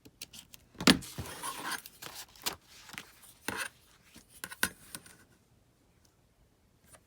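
Paper rustling and crinkling as a sheet is handled on a tabletop, with scattered light taps and a sharp tap about a second in; it falls quiet for the last couple of seconds.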